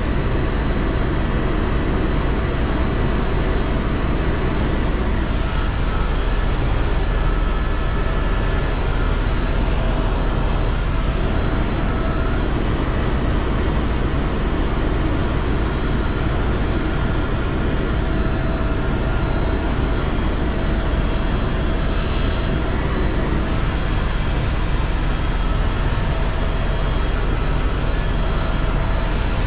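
Tour helicopter in flight, heard from inside the cabin: a steady, loud rotor and engine drone with faint steady whining tones over it.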